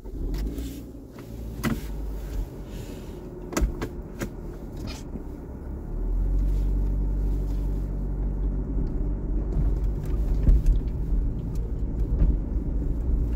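Car engine idling, then pulling away about six seconds in with a louder, steady low rumble. A few sharp knocks come in the first five seconds.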